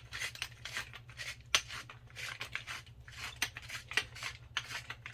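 Hand-twisted pepper grinder grinding pepper, a rhythmic scratchy rasp of about three strokes a second.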